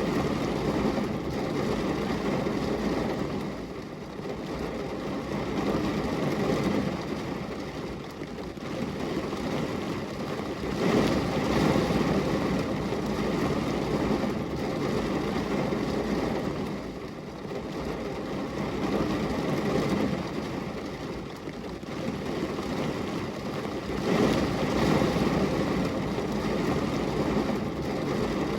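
Steady rain on a glass window: an even, dull rush of noise that swells and eases every few seconds.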